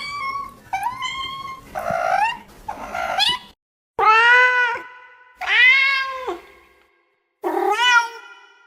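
Cats meowing: about five short, rising meows in quick succession, then, after a brief pause, three longer, clear meows about a second and a half apart.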